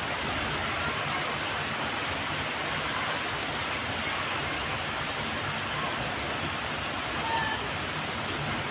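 Steady, even rushing noise of water, with a few faint short chirps over it.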